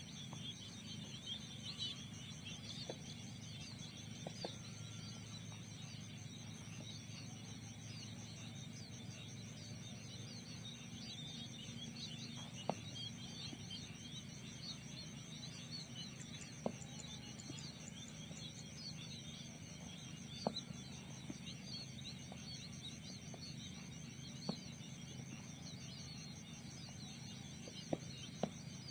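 Outdoor field ambience: many small birds chirping busily over a steady, high, pulsing insect trill, with a low steady hum and a few sharp clicks scattered through.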